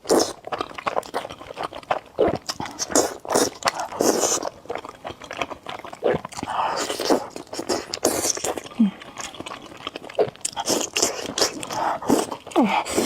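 Close-miked eating: irregular crunchy bites and wet chewing of noodles and crunchy pickled mustard tuber, with a couple of brief vocal hums.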